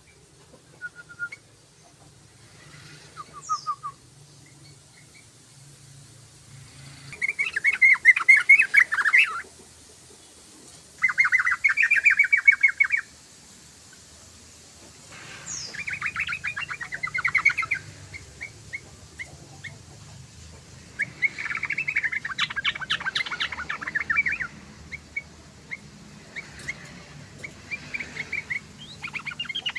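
Yellow-vented bulbul (trucukan) singing in bursts of rapid, bubbling notes, each phrase about two seconds long. There are five phrases with pauses between them and a few short single notes in the gaps.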